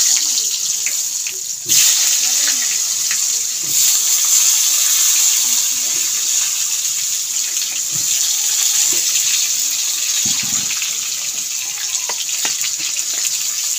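Raw potato wedges dropped by the handful into hot oil in a kadai, setting off a loud frying sizzle that flares up sharply about two seconds in as another handful goes in, then settles into a steady sizzle that slowly eases.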